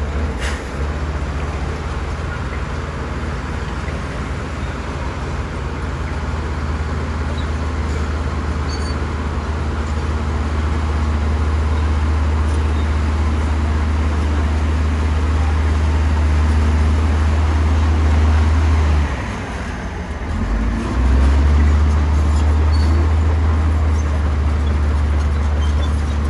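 Heavy bulldozer's diesel engine running hard and steadily. It slowly builds in level, drops off briefly about three quarters of the way through, then comes back up to full power.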